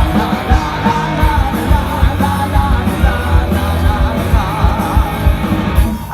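Rock band playing live: drums keeping a steady beat under electric guitar and a melody line, in a break between sung lines.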